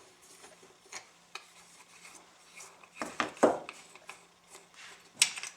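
Steel spanner nut being unscrewed off the clutch of a UFO orbital floor-sander attachment: metal rubbing and scraping, with a few sharp metallic clinks. The clinks are loudest about three seconds in and again near the end.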